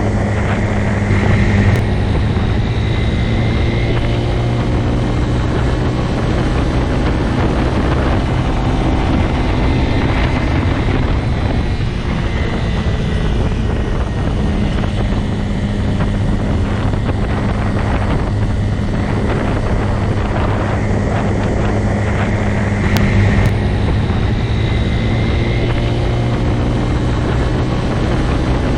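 Motorcycle engine running steadily at an even pitch, with wind noise on the microphone.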